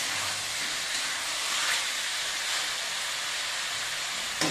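Chicken pieces sizzling as they brown in an aluminium kadhai, a steady frying hiss, while a metal spatula stirs and scrapes them; a sharp click near the end.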